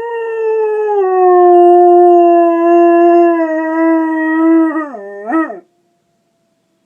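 Pet dog howling along with a fire alarm: one long howl that rises at the start and holds steady, then ends about five seconds in with a short rising-and-falling note before stopping suddenly.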